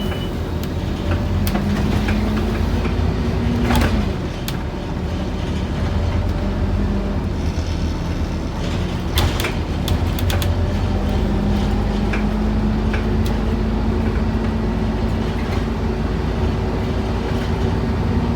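Scania N230UD OmniCity double-decker bus heard from inside the cabin: the engine note climbs as the bus pulls, drops sharply about four seconds in, then climbs slowly again from about eleven seconds, over a steady low rumble. Scattered clicks and knocks run through it.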